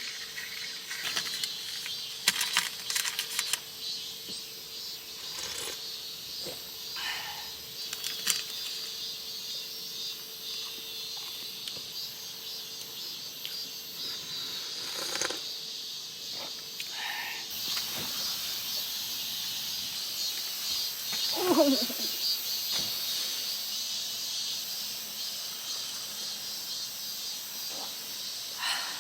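Outdoor summer ambience: insects chirring steadily, with a few light clicks early on and a short gliding call about three-quarters of the way through.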